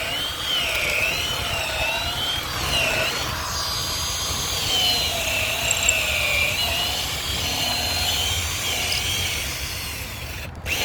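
Electric drill boring into the gate's wooden timber to drill out a section that has to be removed, its motor whine wavering up and down in pitch as it loads in the wood. It cuts out briefly just before the end.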